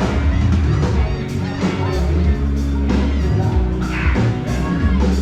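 Live rock band playing, with drums hitting about three times a second over a steady bass line.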